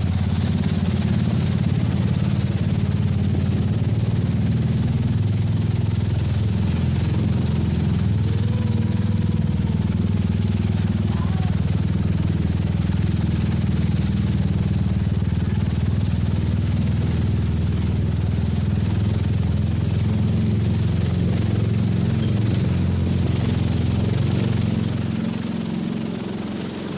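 Jet ski engine running steadily, dropping off somewhat near the end.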